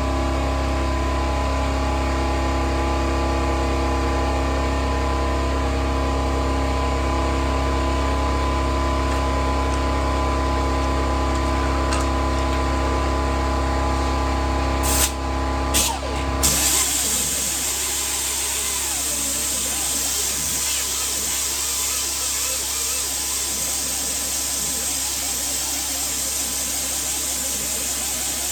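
A machine runs with a steady hum of several fixed tones. About fifteen seconds in come two or three knocks, and then the hum gives way to a steady hiss of air.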